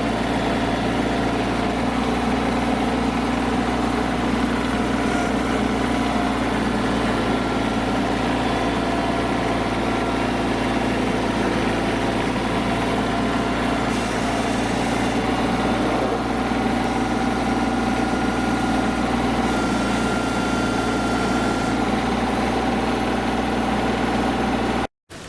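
Mahindra eMax 25 compact tractor's three-cylinder diesel engine running steadily while the tractor pulls a 6-foot scraper blade through dirt. The sound cuts off abruptly near the end.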